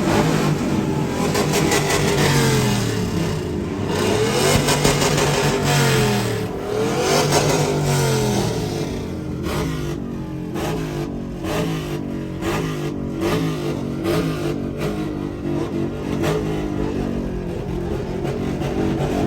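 Several vehicle engines revving, their pitches rising and falling and overlapping, with sharp cracks and pops among them.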